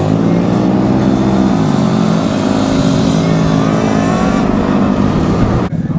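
Several small gas scooter engines running together in a group ride, their pitch dipping and rising as the riders ease off and speed up. The sound changes abruptly near the end.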